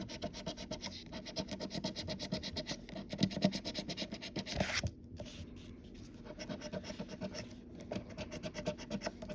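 Scratch-off lottery ticket being scratched in quick back-and-forth strokes, pausing briefly about five seconds in and then carrying on.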